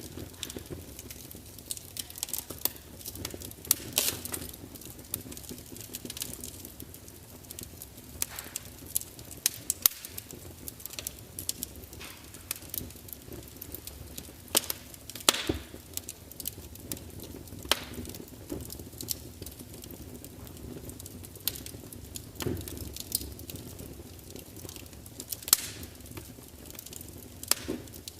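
Wood fire burning in a large fireplace: a low steady rumble of flames with irregular sharp crackles and pops as the logs spit, a few louder snaps among them.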